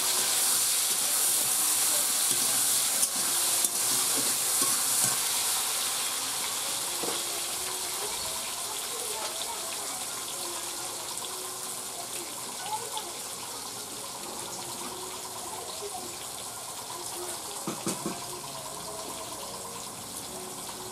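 Potato and tomato pieces frying in hot oil in a metal kadai: a sizzle that is loud at first and slowly dies down.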